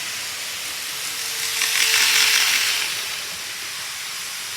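Model train running along the layout track: a rushing, rattling noise that swells about a second and a half in, with a faint motor whine, and fades again by about three seconds in.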